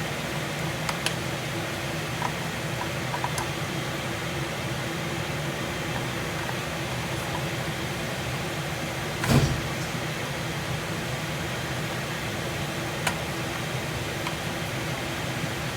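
Kitchen exhaust fan running with a steady, noisy hum, with a few light clicks and one thump about nine seconds in.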